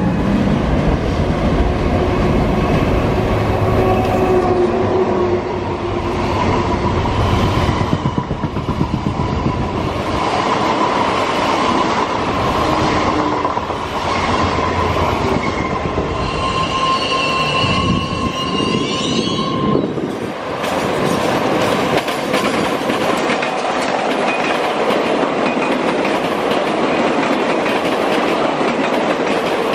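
Double-deck commuter trains passing: a steady rumble of wheels on the rails with clickety-clack over the joints. A screech of wheels on the rails runs for about the first twenty seconds and breaks off sharply, then the even rolling noise of another passing train follows.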